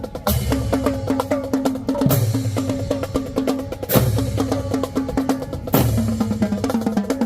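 High-school marching band drumline playing a cadence: fast snare and rim clicks over bass drums, with a heavy accented hit about every two seconds and low sustained notes underneath.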